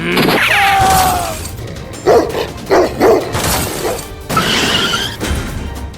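Background music with a dog's sounds: a falling whine in the first second or so, then a few short barks.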